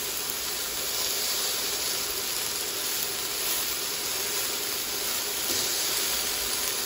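Thin pork chops sizzling in oil in a hot cast iron skillet, just after being flipped: a steady frying hiss.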